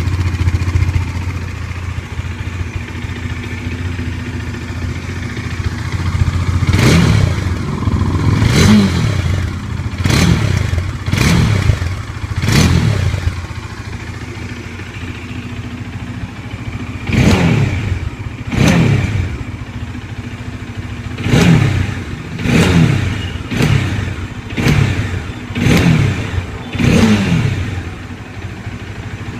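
Bajaj Dominar 400's single-cylinder engine idling through its exhaust, then revved in a series of quick throttle blips, each rising in pitch and dropping back to idle. There is a run of five blips, a short idle, two more, another pause, and a final run of six.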